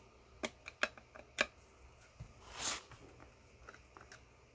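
Several short, sharp clicks and taps of hand tools working at the massager's metal fasteners and case, then a brief scraping hiss.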